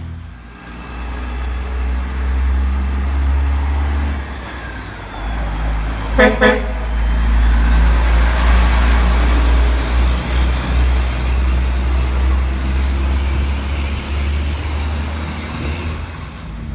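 Semi truck engine running as the truck passes, with tyres hissing on wet pavement; about six seconds in, the horn sounds two short toots.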